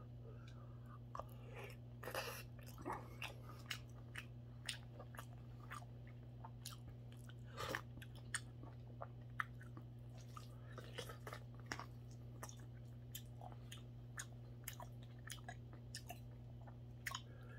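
A person chewing mouthfuls of mackerel rice porridge close to the microphone, with many short wet clicks and smacks scattered irregularly throughout. A steady low hum runs underneath.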